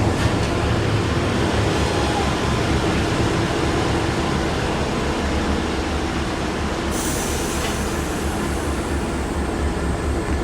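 Victorian Railways T class diesel-electric locomotive running steadily as it hauls its train in, the rolling train noise continuous; a high squeal sets in about seven seconds in.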